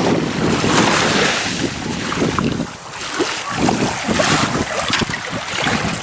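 Wind buffeting the microphone over the rush of small waves washing along the shoreline.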